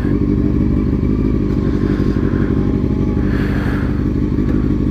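Honda CBR600F4i inline-four motorcycle engine running at a steady speed, its pitch holding level.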